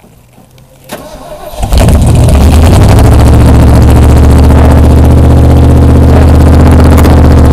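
Ford 400 V8 in a Bronco cranking for a moment about a second in, then catching and running loud and steady at a constant speed on a cold start.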